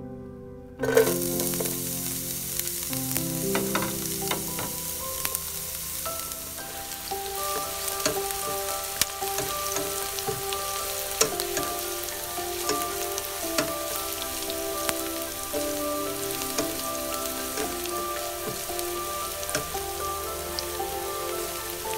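Diced zucchini and red onion sizzling in hot oil in a nonstick frying pan, the sizzle starting suddenly about a second in, with a spatula scraping and tapping as the vegetables are stirred. Soft background music with held notes plays underneath.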